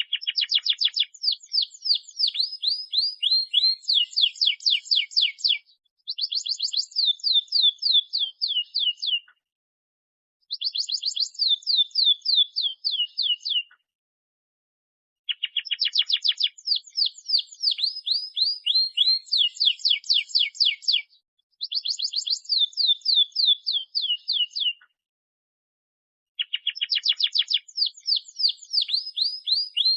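Domestic canary singing in bouts of fast trills, each a rapid run of repeated high notes that sweep downward. The bouts last a few seconds each, with short pauses between them.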